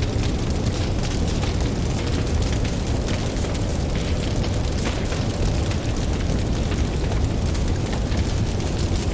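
Campfire crackling in many small, scattered pops over the steady low rumble of ocean surf.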